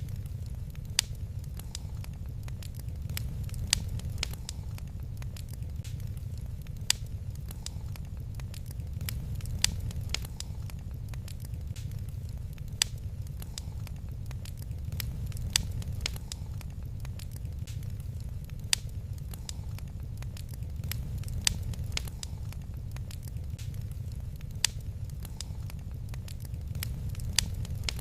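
Wood fire crackling over a steady low roar, with many small sharp crackles and a louder pop about every three seconds.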